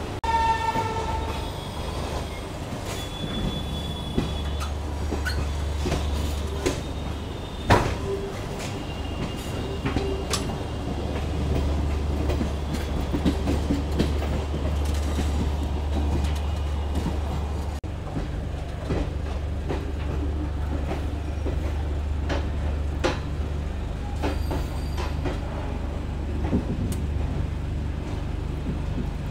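Garib Rath Express passenger train running slowly as it arrives at a station, heard from the coach door: a steady low rumble with the wheels clacking over rail joints and points, one sharp clack about eight seconds in, and a short squeal near the start.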